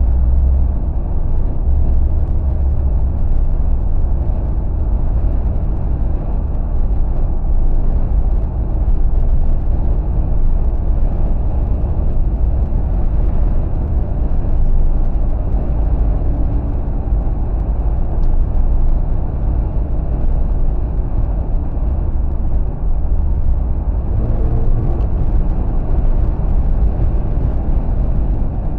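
Steady low rumble of road and wind noise from a car driving along, heaviest in the deep low end.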